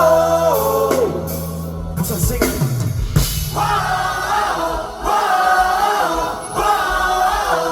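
Live rock band music with singing: a held low chord rings until about two seconds in, then long drawn-out sung notes come in three repeated phrases.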